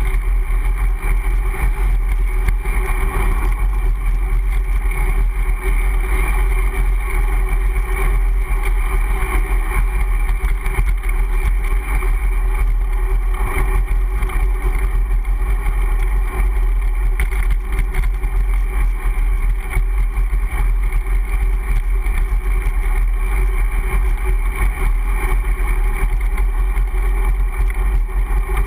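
Steady wind rumble and road noise picked up by a GoPro camera on a Brompton folding bicycle being ridden along. It stays loud and even throughout.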